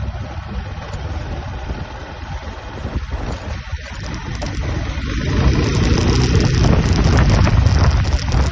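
Wind buffeting the microphone over the rumble of a moving vehicle, growing louder about five seconds in.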